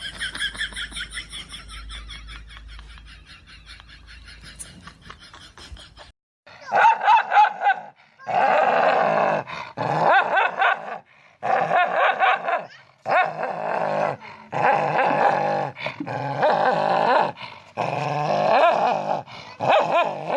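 A dog whimpering in thin, high, pulsing cries for about six seconds, then, after a cut, loud bouts of dog growling and barking broken by short pauses.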